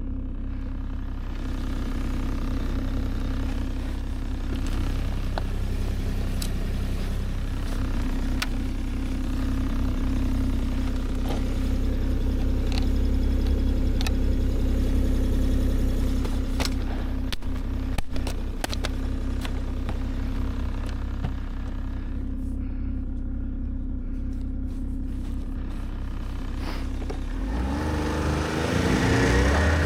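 A vehicle engine running steadily, with a few sharp clicks around the middle, then revving up near the end.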